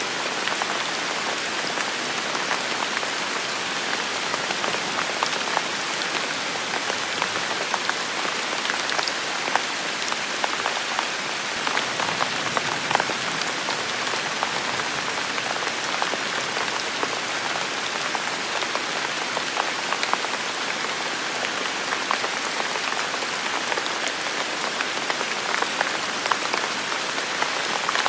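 Heavy rain falling steadily, a dense even hiss flecked with the ticks of individual drops hitting surfaces.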